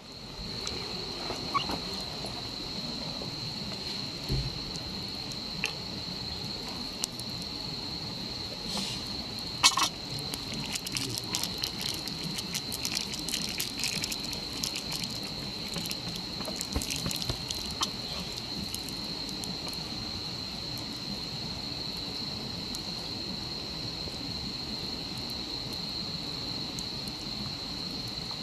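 Night insects singing, a steady high-pitched trill over a low rushing hiss. Near the middle there is a run of small clicks and crackles, with one sharper click.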